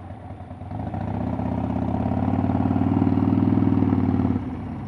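Motorcycle engine running under throttle, its sound building gradually for about three seconds and then dropping back suddenly as the throttle is closed near the end.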